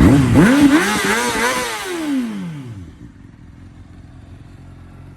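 A 2009 Honda CBR600RR's inline-four engine revs up sharply from idle, its pitch rising and dipping a few times, then falling away as the sound fades out about three seconds in.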